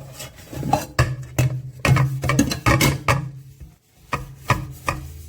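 Sponge scrubbing the inside of a nonstick pot with soap, in quick irregular rubbing strokes, pausing briefly a little before the end.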